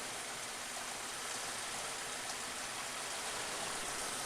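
1999 Suzuki Grand Vitara 2.5 L V6 idling steadily as an even, hiss-like running noise. The engine is misfiring, which the mechanic traces to a faulty cylinder 2 injector that seems to have an intermittent loose contact.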